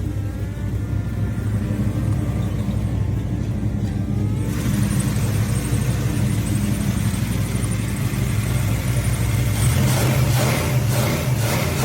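Chevelle's big-block 454 V8 running with a steady low rumble. Its sound turns rougher about halfway through, with a louder, choppy stretch near the end.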